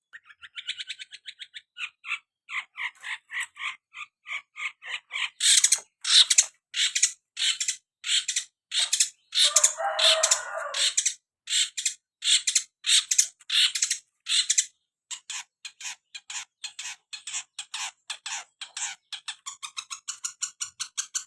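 Long-tailed shrike (cendet) in full, vigorous song: long runs of short, sharp, high repeated notes, rapid trains at first and near the end with louder, more spaced notes between, and one harsher, fuller phrase about halfway through.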